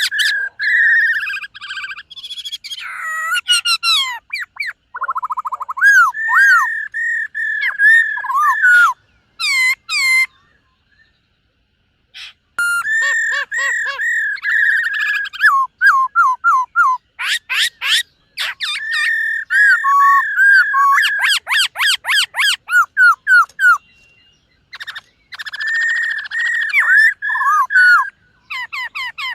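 Black-throated laughingthrush singing: loud whistled phrases and fast trilled runs in repeated bursts, with short pauses about ten seconds in and again near the end.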